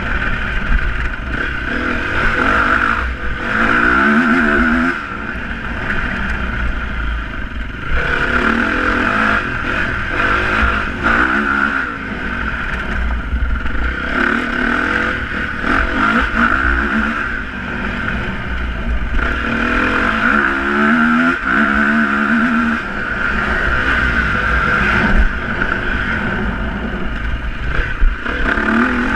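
Motocross motorcycle engines running hard and revving up and down, the pitch rising and falling in repeated sweeps every few seconds.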